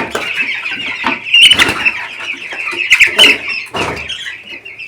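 A flock of two-week-old chicks peeping constantly, with two loud squeals about a second and a half and three seconds in as a chick is caught and handled for weighing.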